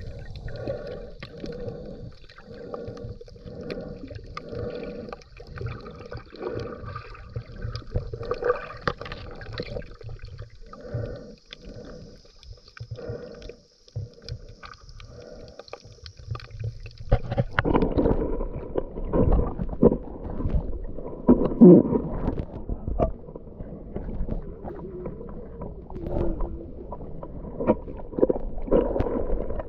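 Underwater sound recorded through a camera housing during a scuba dive: bubbling and gurgling from divers' regulator exhaust. A run of short, regular pulses gives way about two-thirds of the way through to louder, rougher bubbling with scattered pops.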